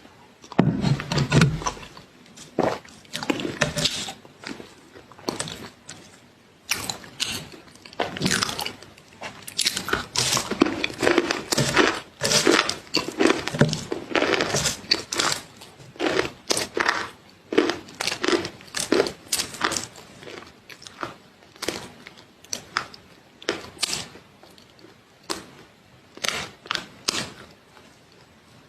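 Close-miked crunchy food being bitten and chewed: a rapid, irregular series of sharp, crisp crunches.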